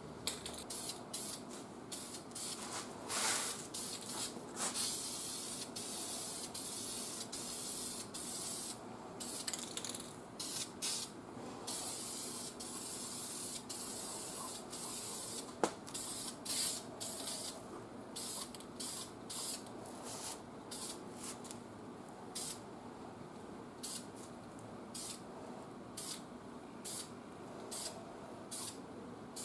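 Gloss-black VHT Engine Enamel hissing from a spray can onto an engine block in repeated bursts: a few longer passes at first, then many short spurts.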